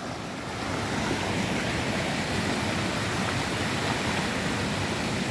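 Steady rush of flowing water, an even hiss-like roar that swells slightly about half a second in.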